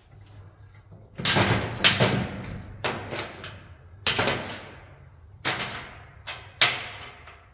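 Sharp clanks and knocks from tools and brake parts being handled during a rear disc brake job, about seven of them, each ringing off briefly.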